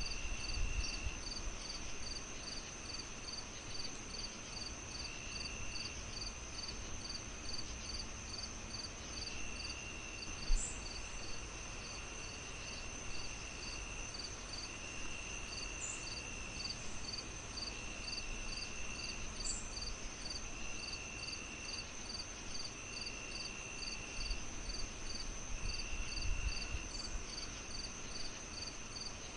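Crickets chirping in a steady night-insect chorus: evenly repeated high chirps at about two or three a second over a constant high trill, with longer trills every few seconds. Underneath, the low hiss of a wood fire with a few sharp crackles, the loudest about ten seconds in.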